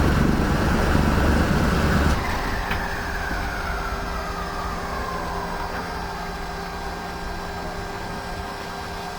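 Douglas DC-6's Pratt & Whitney R-2800 radial piston engine running, heard in the cockpit, then cut off abruptly about two seconds in. A whine then falls slowly in pitch as it winds down, over a steady electrical hum, with a single click shortly after the cut.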